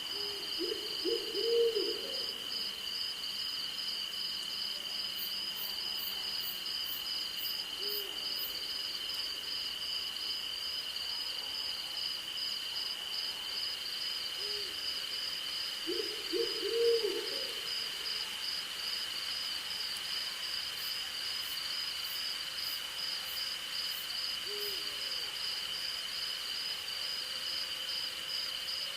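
An owl hooting: a quick run of hoots about a second in and again about sixteen seconds in, with single hoots in between. Behind it runs a steady night chorus of crickets and insects, one high even trill and a faster pulsing one above it.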